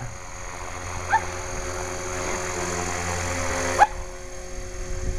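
HK 450GT electric model helicopter in flight: a steady motor whine and rotor whoosh, muddied by wind buffeting the microphone, growing louder before dropping away suddenly near the end. Two short rising squeaks sound about a second in and just before the drop.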